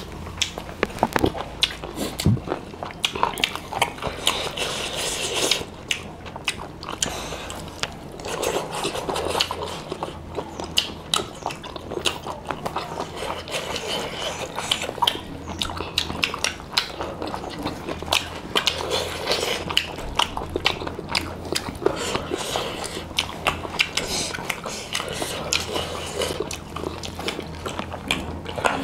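Eating sounds of two people chewing and smacking on mouthfuls of rice and curry eaten by hand: a dense, irregular run of small wet clicks and smacks.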